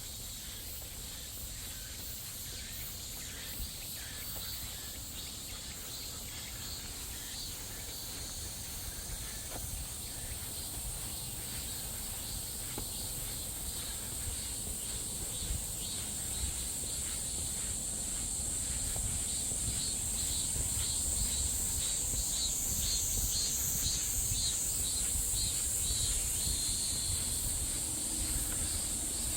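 A chorus of cicadas buzzing steadily in the trees, a high, dense drone that swells louder over the second half, with a low rumble underneath.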